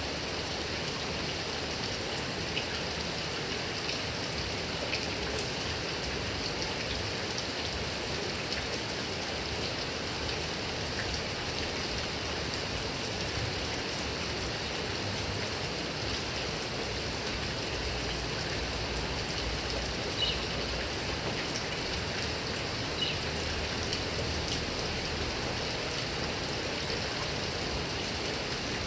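Heavy rain falling steadily on grass and coconut palms, an even hiss with scattered drop ticks.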